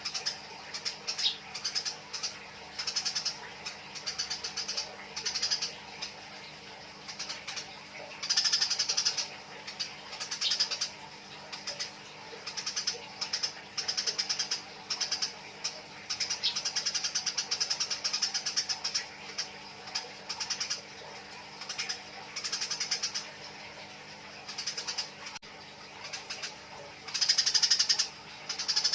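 Eurasian tree sparrows giving rapid, chattering trains of chirps in repeated bursts, the agitated calling of sparrows fighting. The bursts come every second or two, loudest about eight seconds in and again near the end.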